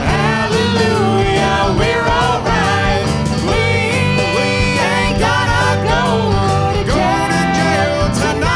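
Band playing a country-style song: guitar and steady bass and chords under a lead melody line that slides up and down in pitch, with a regular beat.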